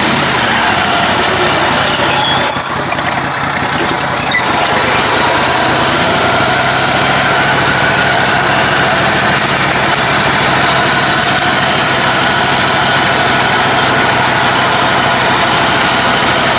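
Engine of a lifted, modified riding lawn mower running steadily as it is driven off-road, easing off briefly about three seconds in.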